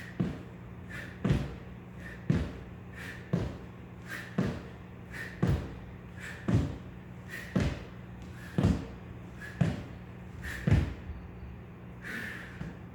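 Regular thuds, about one a second, from a person doing weighted pull-ups with 2 kg hung on each side of a weight belt, over a steady low hum.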